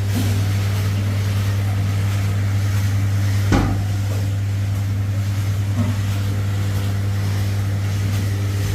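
A motor running with a steady low hum that starts suddenly, with a single knock about three and a half seconds in.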